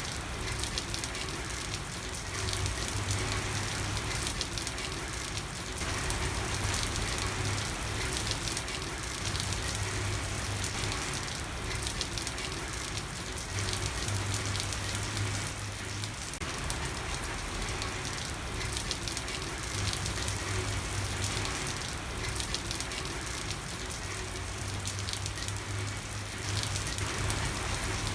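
Steady rain falling on a street: a dense, even hiss with a fine patter of drops. Under it, a low hum comes and goes every few seconds.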